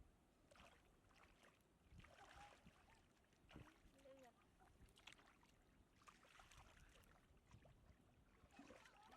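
Near silence, with faint scattered clicks and knocks.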